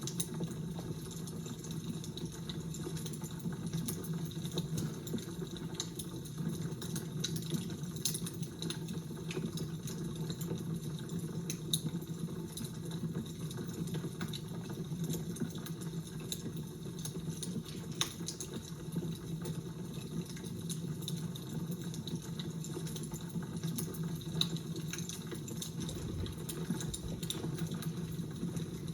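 Fire crackling: a steady low rush with scattered sharp pops and crackles throughout.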